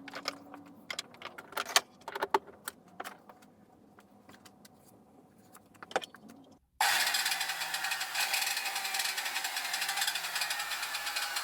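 Scattered clicks and knocks of the restored circular saw being handled, then, about two-thirds of the way in, the saw's electric motor switches on suddenly and runs steadily with its new blade spinning free, loud.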